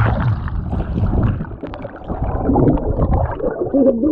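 Rough sea water splashing and churning right at the microphone, with many small knocks and clicks. A muffled voice comes in over the water about halfway through.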